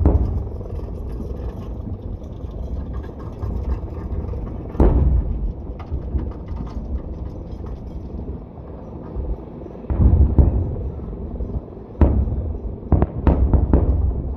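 Fireworks going off: deep booms about five seconds in, about ten seconds in and again at twelve seconds, then a quick run of sharp cracks near the end, over a steady low rumble.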